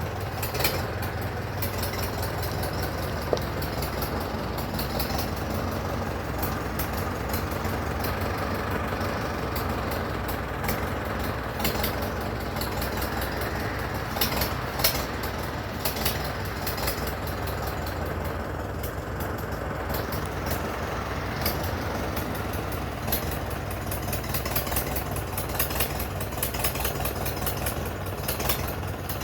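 A 1942 Farmall H tractor's four-cylinder petrol-paraffin engine running steadily, with scattered sharp clicks over its low beat.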